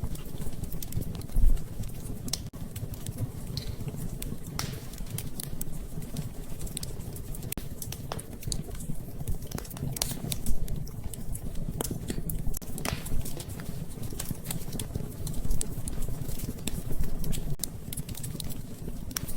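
Wood fire crackling and popping over a low steady rumble of flames, with a few louder pops.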